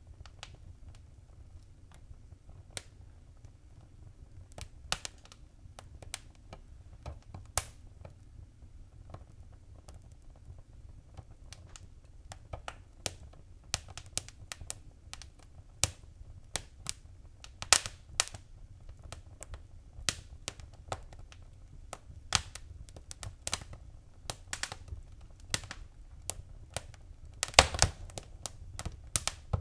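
Wood fire crackling in a fireplace: irregular sharp pops and snaps over a low steady rumble. The pops come thicker in the second half, with a quick flurry near the end.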